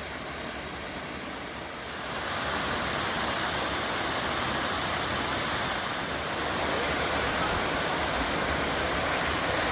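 Steady rush of running water, getting louder about two seconds in.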